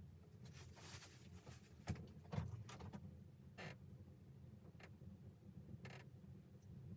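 Near silence: a faint steady low hum with a few soft, scattered clicks and rustles.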